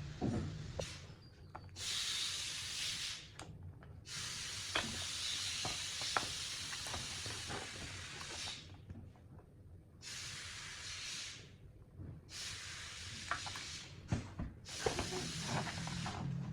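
Spray hissing in about five bursts of one to four seconds each, each stopping sharply, with small clicks and knocks of handling in between.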